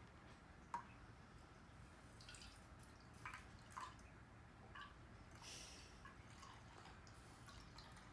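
Vinegar being poured into a small container holding washing-up liquid: faint drips and small splashes, with a sharp click about a second in.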